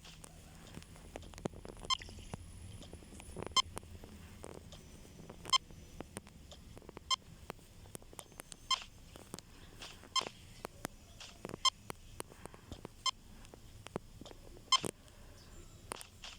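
Checkout barcode scanner beeping as items are scanned, about nine short beeps roughly one and a half seconds apart, amid the rustle and clicks of goods and bags being handled.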